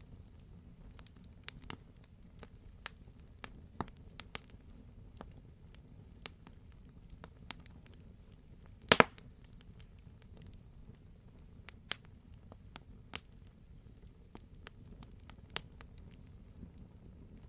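Campfire burning: a low steady rumble with scattered sharp crackles and pops of burning wood, the loudest a sharp double pop about nine seconds in.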